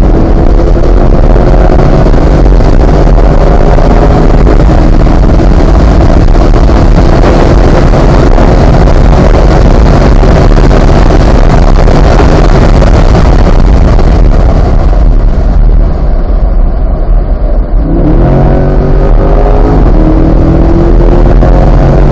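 Chevrolet C8 Corvette's 6.2-litre V8 accelerating hard on a race track, its pitch climbing. About fifteen seconds in the engine note and noise ease off for a few seconds as the car slows, then the engine pulls hard again with rising pitch near the end.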